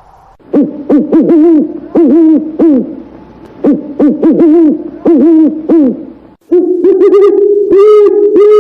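Common cuckoo calling: low, hollow hooting notes in two groups, then a longer run of calls over a held tone near the end.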